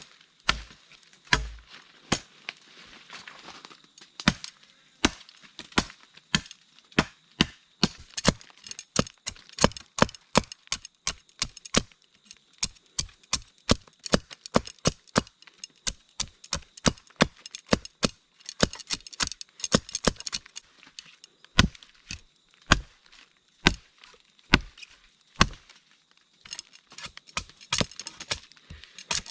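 Repeated chopping of a blade into wood, with sharp strikes coming irregularly at roughly two a second and brief pauses between runs.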